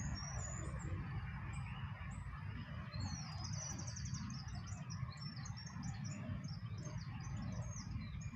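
Small birds chirping, a few short high calls at first and then a busy run of rapid twittering from about three seconds in, over a steady low rumble.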